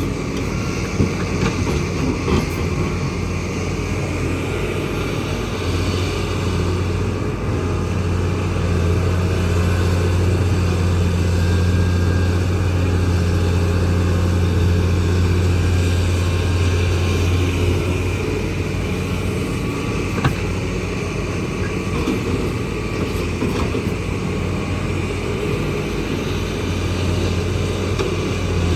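Kobelco excavator's diesel engine running steadily, its hum growing stronger from about six seconds in until about eighteen seconds in. There are a few short, sharp knocks.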